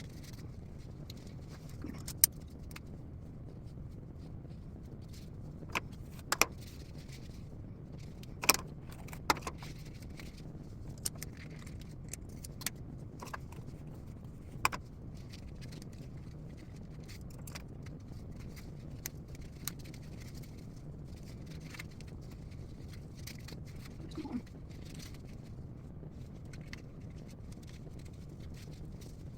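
Scattered sharp clicks and taps of small objects being handled, about a dozen, irregularly spaced and mostly in the first half, over a steady low hum.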